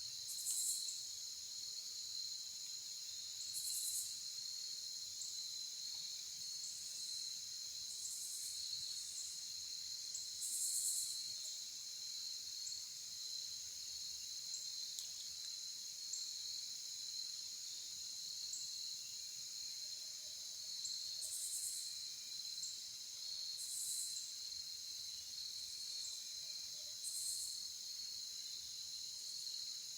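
Insects, crickets among them, trilling steadily in a high, even drone, with short, higher buzzes every few seconds.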